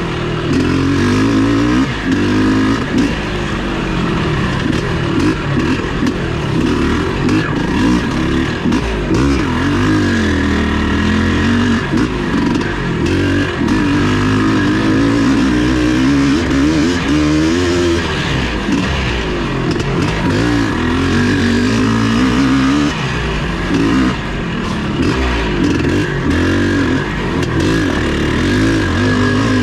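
Vintage off-road racing motorcycle engine revving up and down continuously as it is ridden hard, its pitch rising and falling every second or two.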